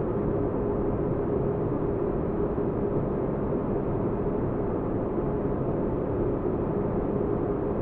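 Sci-fi spaceship interior ambience: a steady deep noise with a constant low hum, unchanging throughout.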